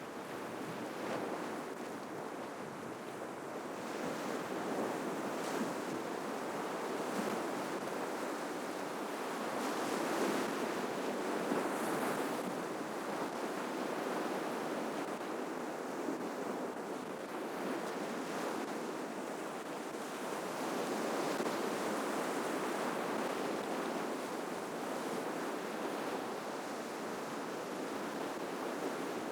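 Ocean waves breaking and washing on the shore, a continuous surf noise that swells louder and eases back in slow surges.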